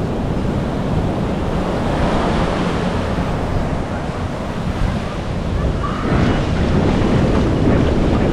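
Ocean surf washing on a beach, with wind rumbling on the microphone; the wash swells louder about six seconds in.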